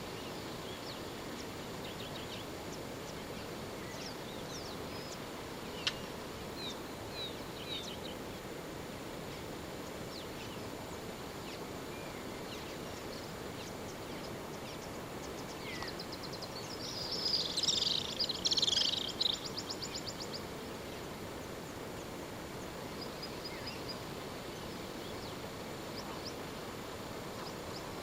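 Wild birds calling: scattered short, high chirps over a steady outdoor background hiss, with a louder, dense flurry of birdsong a little past the middle.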